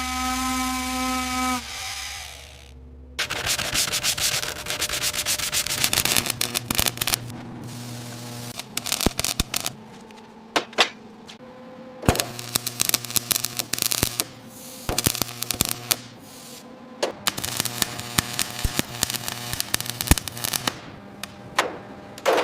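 A steady pitched whine cuts off about a second and a half in. Then comes a long run of rough rubbing and scraping, dense with sharp clicks, going in uneven spells with short pauses between them.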